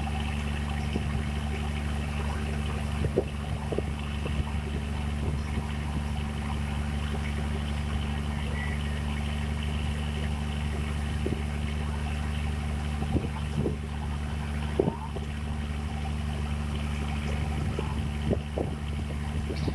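Boat engine running at a steady speed: a low, even drone that does not change pitch, with a few light knocks.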